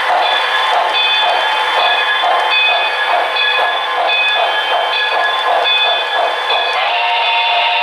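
Model train sound running on a club layout, thin with almost no bass: a regular beat about twice a second with steady tones over it. Near the end, a steady tone of several pitches takes over.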